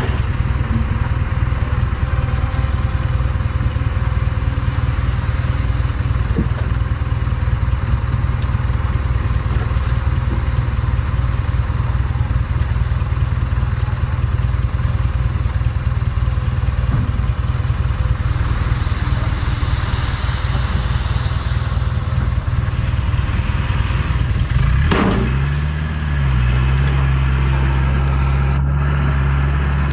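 Heavy diesel construction machinery engine running steadily. About 25 seconds in, the sound changes abruptly to a steadier, more evenly pitched engine drone.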